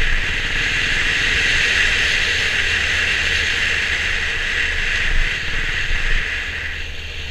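Steady riding noise from a Honda CB350 RS motorcycle: a loud rush of wind and road over a low engine rumble, swelling in the first second and easing off near the end.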